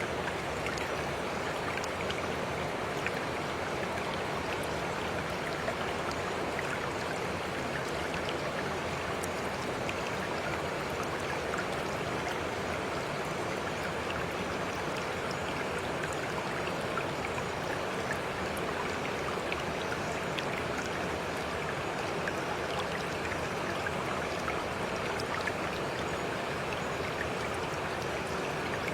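Water flowing steadily in a stream, an even rushing with small drips and splashes scattered through it.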